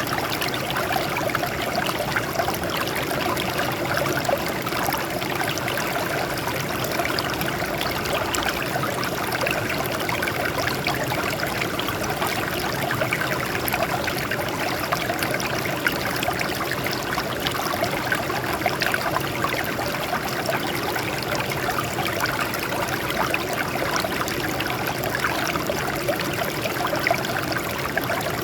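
Water flowing and splashing over rocks in a small stream, a steady babbling rush with no change.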